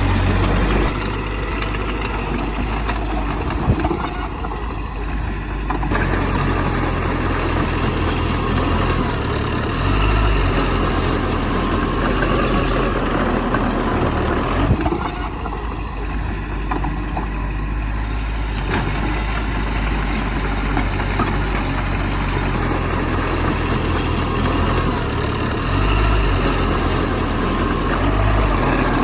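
Heavy diesel engines of earthmoving machinery running steadily, with two brief sharp knocks about 4 and 15 seconds in.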